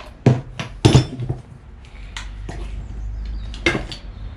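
Metal parts of a pressure washer knocking and clinking as its electric motor is taken off the stand: a quick run of knocks in the first second, then a few more spaced out, over a low steady hum.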